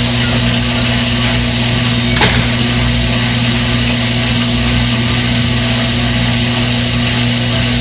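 Front-load washing machine running with a steady motor hum and whir, with one short click about two seconds in.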